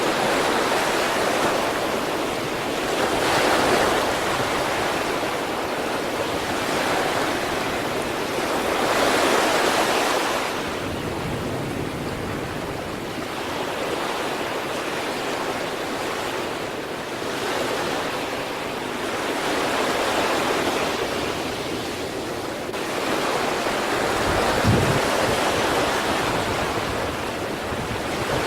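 Sea waves breaking on the East Sea shore: a continuous rush of surf that swells and ebbs as each wave comes in, every several seconds, with a brief low thump about 25 seconds in.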